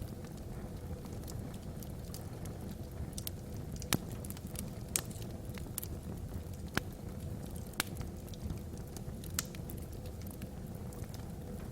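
Wood fire burning in a fireplace: irregular sharp crackles and pops from the logs over a steady low rumble.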